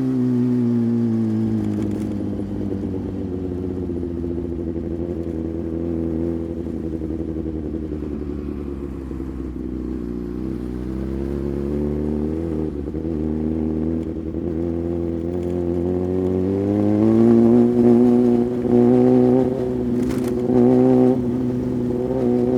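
Sportbike engine heard from the rider's position, easing off to a low steady run, then pulling up in pitch about 17 seconds in and holding at higher revs.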